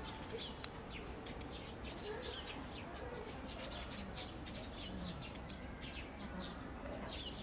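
Small birds chirping: many short, high calls, each dropping in pitch, several a second, over a low steady background hum.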